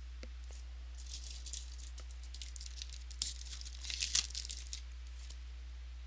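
Trading cards and packaging being handled: irregular crinkling and rustling, with sharper crackles about three and four seconds in.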